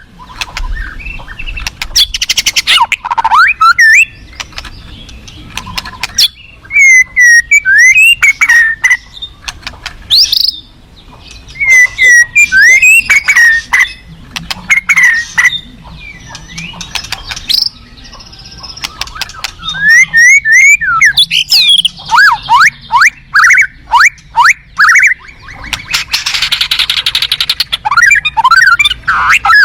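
White-rumped shama singing: loud, varied phrases of quick sliding whistles mixed with rapid chirps and clicking notes, coming in bursts with short pauses between.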